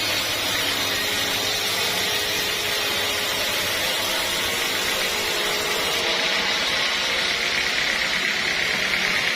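Sawmill saw cutting through a teak log with a steady, unbroken noise.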